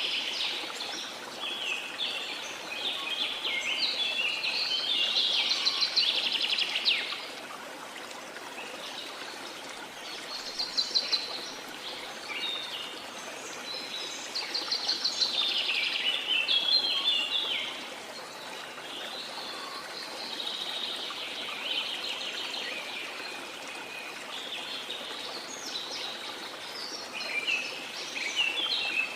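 Small songbirds singing in repeated bouts of rapid chirps and trills, with short pauses between bouts, over a steady wash of sea noise.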